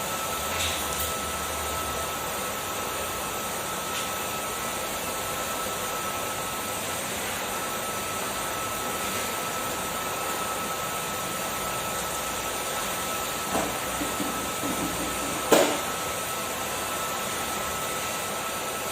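Kärcher vacuum cleaner running steadily with a faint steady whine. A few light knocks come late, then one sharp knock, the loudest sound.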